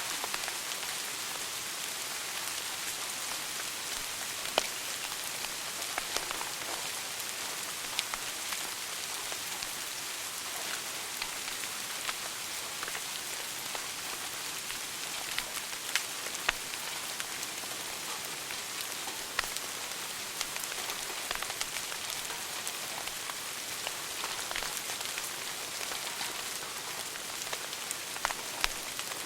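Wood fire burning in a fireplace: a steady hiss with frequent small crackles and a few louder pops.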